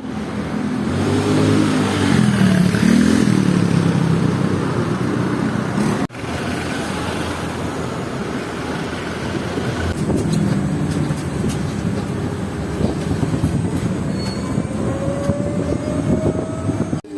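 Motor vehicle engine running, its pitch rising and falling as it speeds up and slows, amid street traffic noise. The sound breaks off abruptly for a moment about six seconds in.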